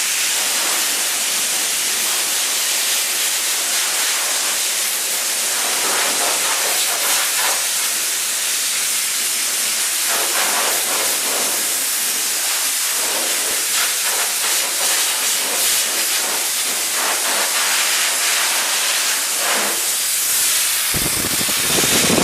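Compressed air hissing steadily from an air blowgun. Near the end a louder, deeper rush comes in.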